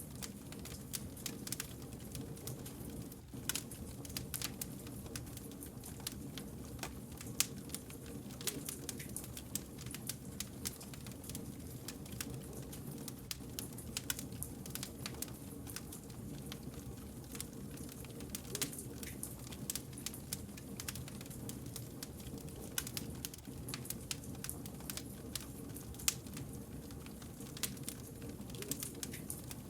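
Burning firewood crackling, with frequent small irregular pops and snaps over a steady low hum.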